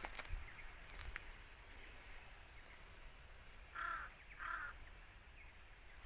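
A bird gives two short, harsh, caw-like calls about half a second apart, over low outdoor background noise, with a few sharp clicks in the first second.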